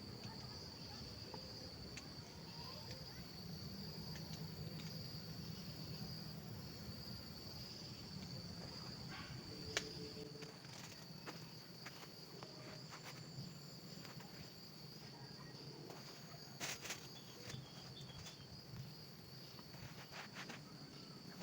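A steady high-pitched drone of forest insects. A few sharp clicks and knocks cut through it, the loudest about ten seconds in and a cluster near the end.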